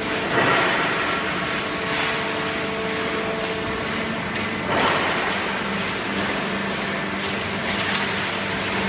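Hydraulic waste-cardboard baling press running, with a steady hum and a louder surge about half a second in and again near five seconds.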